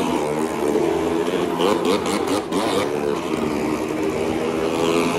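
Motorcycle engine running hard as it rides round the vertical wooden wall of a well-of-death pit, its pitch wavering up and down with the throttle, most strongly about two seconds in.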